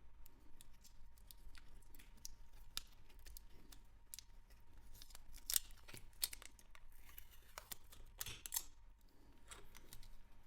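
Small metal hand tools clicking and scraping against a wristwatch, in a run of short, sharp clicks with a few louder snaps about five and a half, six and eight seconds in.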